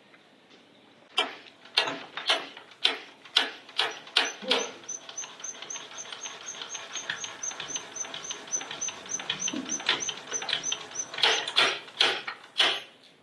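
Vintage Lister Petter stationary engine being turned over by hand without firing. Sharp clicks come about two a second, then a fast, even run of high, squeaky ticks at about five a second for several seconds, then more clicks near the end.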